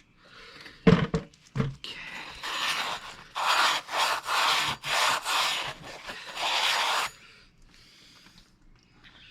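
A couple of sharp knocks, then a run of about six to eight harsh rasping strokes, each about half a second long, like hand-filing or scraping on a part. The strokes stop about two seconds before the end.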